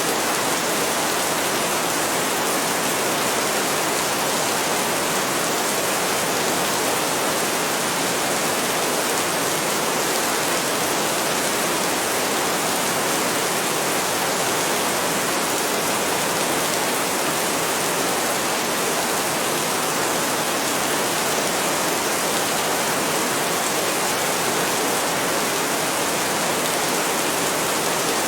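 Heavy rain falling steadily: a dense, even hiss with no gusts or breaks and no thunder.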